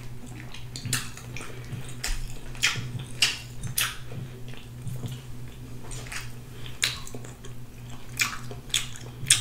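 Wet, close-up mouth smacking and chewing while eating sauce-covered rotisserie chicken, with sharp smacks coming irregularly about once a second.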